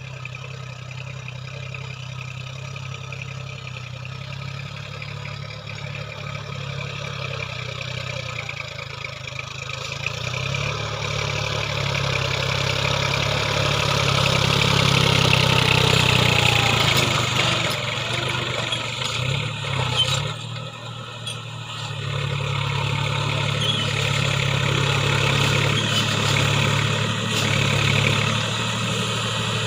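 New Holland 4WD tractor's diesel engine running steadily. It grows louder toward the middle, dips briefly about two-thirds of the way through, then runs on steadily.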